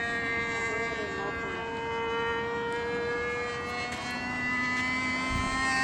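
Super Tiger .51 glow engine of a Thunder Tiger Champion 45L RC airplane in flight at a distance, a steady high drone. It shifts in pitch about four seconds in and grows louder near the end.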